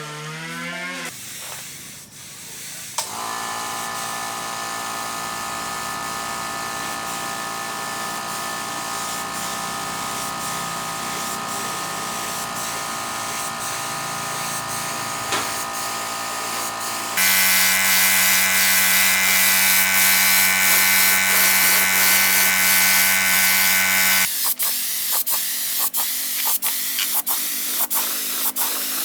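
An electric motor running steadily. About two thirds of the way in it gets louder with a strong hiss, and near the end it gives way to a hissing spray broken into short regular pulses.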